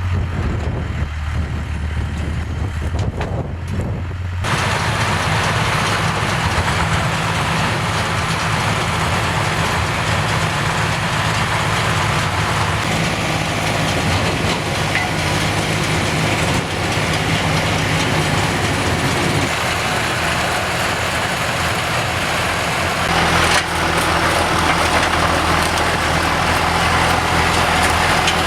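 Tractor engine running steadily while driving a pruning round baler, with the baler's mechanical clatter and rush joining about four seconds in and growing louder near the end.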